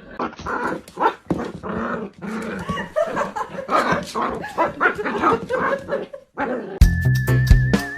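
A dog vocalizing in a long, busy run of short barks, yips and whines. The calls stop about six seconds in and music with a deep bass starts near the end.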